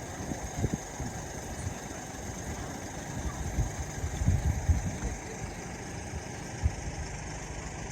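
Cabin noise of a moving road vehicle: a steady engine and road rumble with irregular low thumps and bumps.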